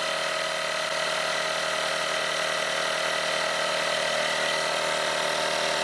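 Electric air compressor running steadily with an even hum, pumping up a wheelchair's rear tyre.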